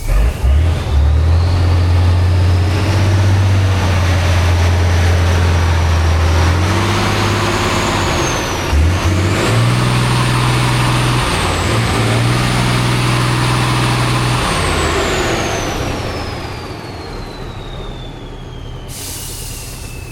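Heavy off-road competition truck's diesel engine working hard under load, with a high whistle that climbs as it revs. The engine note briefly breaks and picks up higher about nine seconds in, then the engine eases off over the last few seconds as the whistle falls away.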